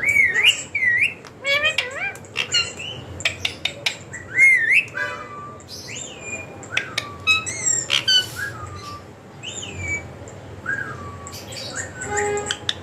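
Indian ringneck parrot calling: a string of short whistles that swoop up and down in pitch, mixed with sharp chirps and squawks.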